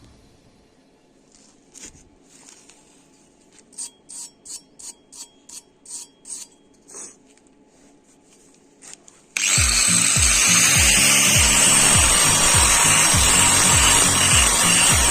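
A run of about ten short scraping strokes, then a sudden loud harsh hiss of metalworking noise under music with a steady thumping beat.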